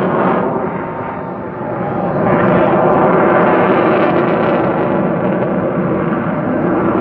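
F-22 Raptor jet fighter's engines making a loud, steady roar on a pass, dipping briefly about a second in, then swelling again.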